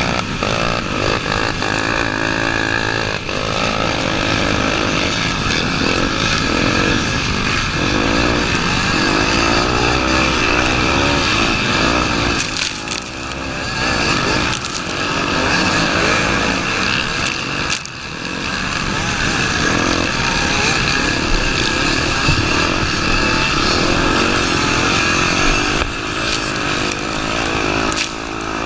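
Honda Tornado 250's single-cylinder four-stroke engine running under constant throttle changes, its revs rising and falling continuously as the bike is ridden off-road. The revs drop off briefly about halfway through and again a few seconds later.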